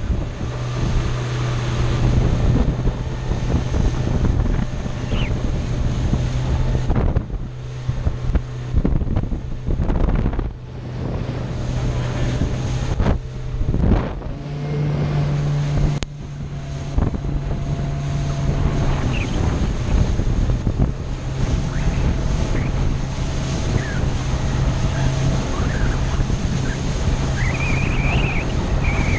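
Motorboat engines running at a steady hum under strong wind buffeting the microphone and water rushing past the hull. The hum shifts pitch slightly now and then.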